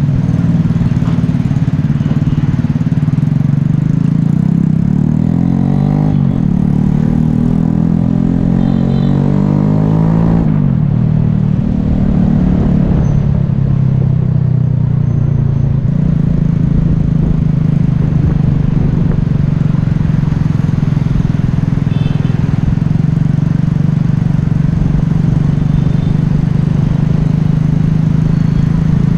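Yamaha Taurus motorcycle's small single-cylinder engine and exhaust running while riding, heard close up from the bike. The engine note climbs and falls back twice in the first ten seconds, then settles to a steady cruising note.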